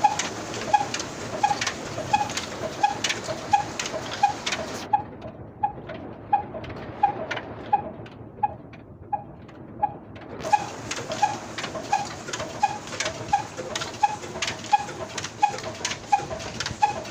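Old Ruston Hornsby diesel 'black engine' running steadily while driving a tube well, giving an even beat of about three strokes a second with a sharp click on each.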